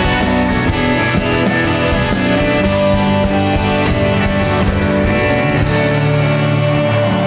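Rock band playing live, an instrumental passage without vocals: guitars with held chords over drums.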